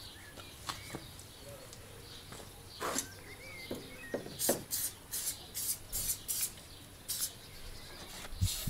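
Headlight unit being fitted into the front panel of a VW Golf Mk2: a series of short clicks, taps and scrapes of the lamp housing against the body, coming thicker from about three seconds in.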